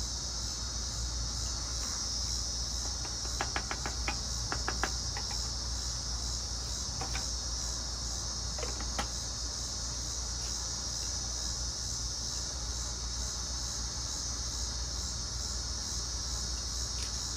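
Steady high-pitched chorus of crickets or similar insects, with a low steady hum underneath. A few light clicks and knocks come between about three and five seconds in, and again twice a little later.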